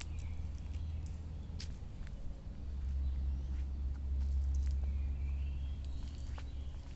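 Outdoor ambience of a steady low rumble, with a few faint bird chirps and scattered light clicks.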